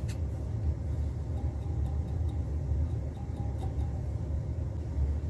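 A drill running steadily while it bores a hole partway into the side of a pressed cardboard firework tube, over a low rumble, with a click at the start.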